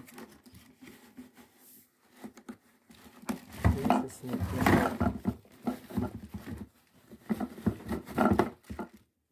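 Handling of a shop vacuum's plastic body and parts: irregular clattering knocks and rustling, busiest in the middle and again near the end.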